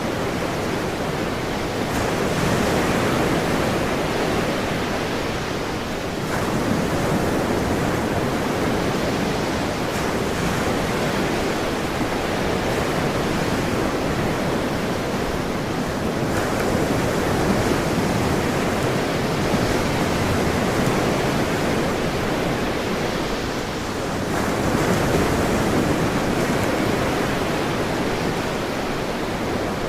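Ocean surf: waves breaking and washing in a steady rush, swelling and easing every several seconds.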